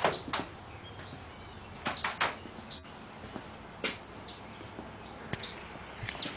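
Adult bird giving repeated sharp alarm chirps, short and falling in pitch, about one every second: the mother scolding someone who is looking into her nest of young about to fledge.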